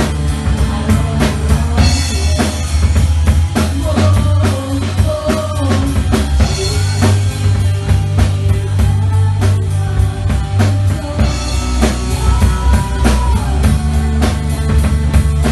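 A live band playing loud rock music: a drum kit beating steadily over a heavy bass line, with a voice or lead guitar gliding through a melody now and then.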